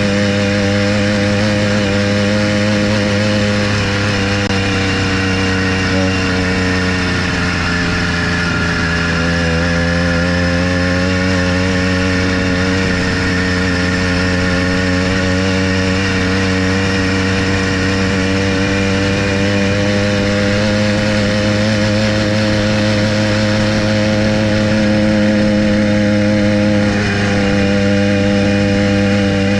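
Small engine of a motorized bicycle running steadily while riding, its pitch dipping slightly about seven seconds in and again near the end before picking back up.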